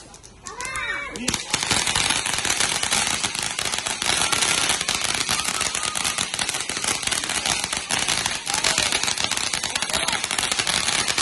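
Ground fountain fireworks spraying sparks with a dense, rapid crackle of pops, like a long string of firecrackers, starting about a second in and going on steadily.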